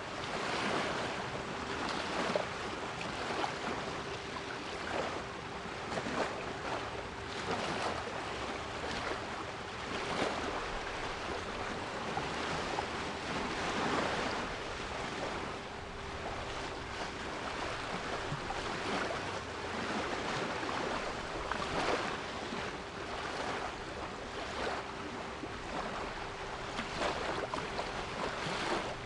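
Sea waves washing in and breaking, a steady rolling surge, with a continuous 396 Hz pure tone held beneath them.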